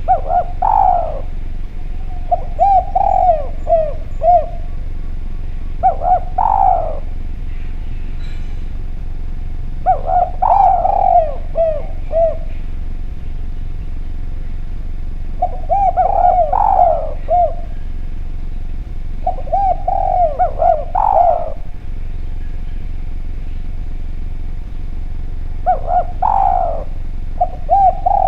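Spotted dove (derkuku/tekukur) cooing: about seven repeated phrases a few seconds apart, each a short run of rolling coos over a steady faint background hum.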